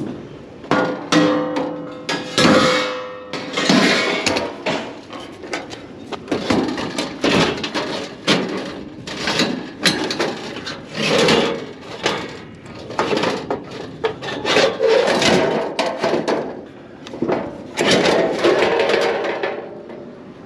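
Scrap items being handled and loaded: repeated knocking, clattering and thumping about once a second, some early knocks with a short metallic ring.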